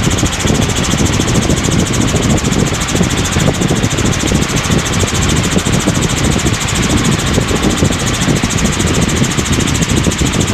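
Helicopter in flight, heard from inside the cabin: a steady, loud drone of rotor and engine with a fast, even pulsing beat.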